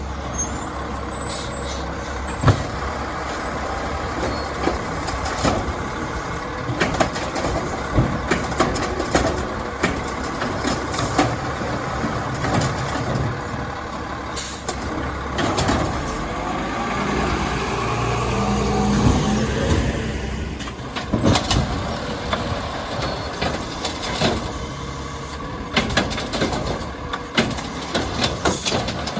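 Garbage truck with an Amrep side loader working: engine running with repeated clanks and knocks, its pitch rising and then dropping off sharply about twenty seconds in, with air brake hiss.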